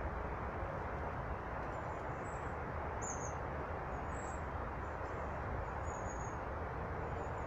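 Small birds giving short, thin, very high chirps, a handful scattered through, the clearest about three seconds in, over a steady noisy background.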